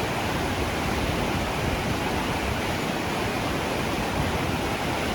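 Whitewater rapids of the Animas River rushing steadily, a loud, even hiss and rumble of churning water.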